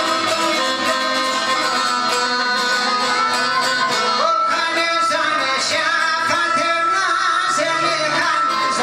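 Albanian folk song: plucked string instruments and fiddle playing a dense, ornamented melody, with a singing voice.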